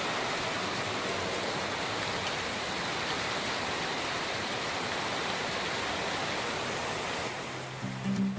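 Heavy rain pouring down in a steady, even hiss. Less than a second before the end the rain sound cuts away and guitar music begins.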